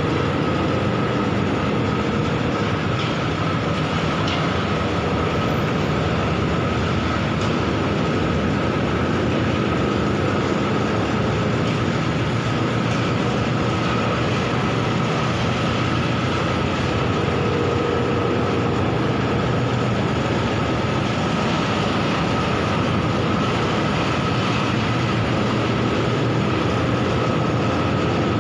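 Bucket-wheel stacker-reclaimer running: a steady mechanical rumble and rattle with a constant high whine over it.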